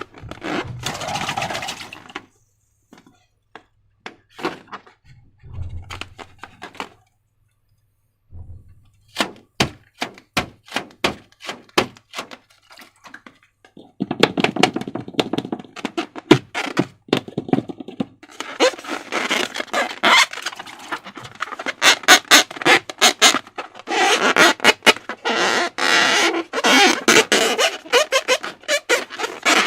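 Handling sounds from slime making with balloons: many sharp clicks and taps, then from about halfway on long stretches of sticky, crackling squishing.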